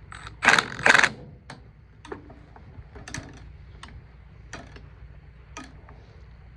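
Hand tools working on a square baler's knotter: two louder scraping, rattling noises about half a second and a second in, then scattered sharp metallic clicks and taps.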